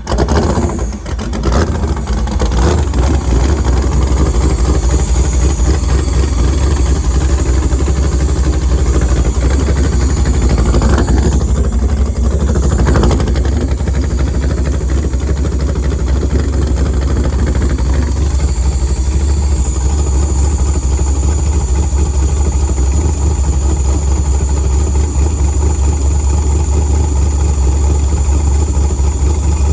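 LS V8 engine in a Chevrolet El Camino idling steadily just after being started. It is running to test a freshly replaced power steering line, with a brief change in the sound about eleven seconds in.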